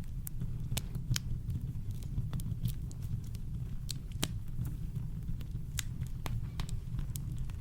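Campfire crackling: irregular sharp pops and snaps of burning wood, about two or three a second, over a steady low rumble.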